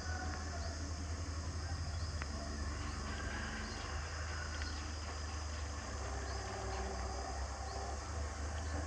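Outdoor ambience: a steady low rumble that flutters unevenly, with faint high insect chirping over it.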